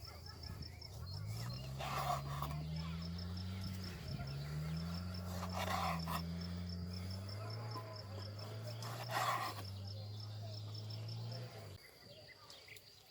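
Crickets chirping steadily in a fast, even pulse. Over them, a louder low droning hum with gliding pitch that cuts off abruptly near the end, and three short rustling bursts.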